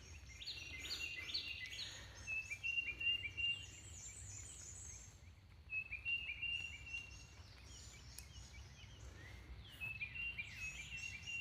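Several wild birds singing and chirping, one repeating a short phrase of quick high notes every few seconds, the others calling higher over it.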